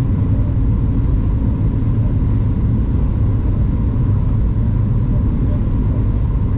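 Steady low rumble of cabin noise inside a Boeing 737 MAX 9 airliner, engine and airflow noise with no distinct bumps or changes.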